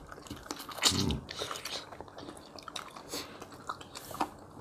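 Close-up biting and chewing of food, with crunching and small wet clicks, and one louder bite about a second in.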